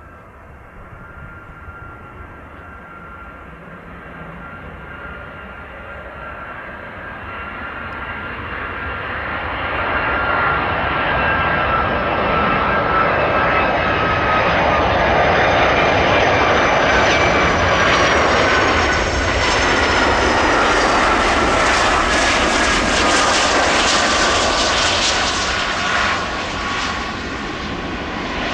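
Jet engines of a Boeing 757-300 on landing approach, growing steadily louder over about ten seconds as the airliner nears, then staying loud. Whining engine tones slide slowly lower in pitch as it passes.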